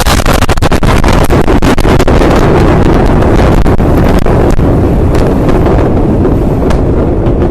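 Blast of the Beirut port explosion: a loud, distorted rumble with dense crackling, the blast's rush of air overloading the microphone.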